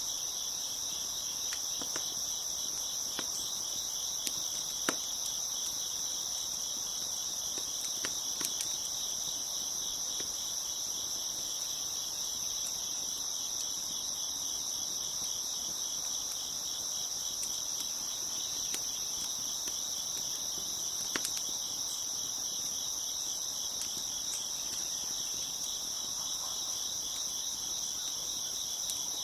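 A dense chorus of crickets chirping steadily. A few sharp crackles from a wood fire pop through it, the loudest about five seconds in.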